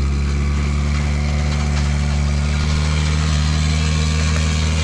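Vehicle engine running steadily at an even, unchanging pitch.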